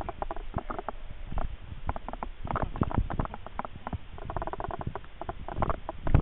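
A bicycle rattling and clattering as it jolts over a rough road, with quick irregular knocks and short squeaks, and one sharper bang just before the end.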